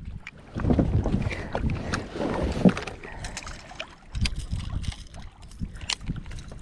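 Wind buffeting the microphone in uneven gusts, the first running from about half a second to three seconds in and a second starting about four seconds in, with scattered light clicks.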